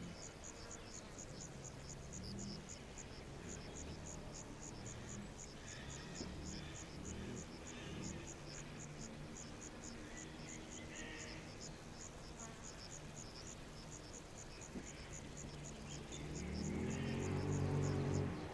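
Crickets chirping steadily in high, evenly spaced chirps. Under them runs a low, pitched sound whose tone bends up and down, growing louder near the end.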